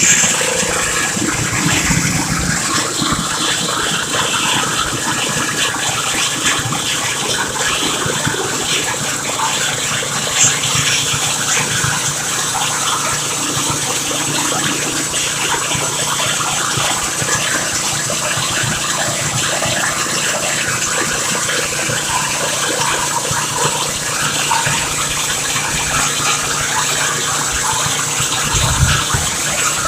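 Chain-driven borewell drilling rig at work: a steady rush of gushing water with an engine running underneath.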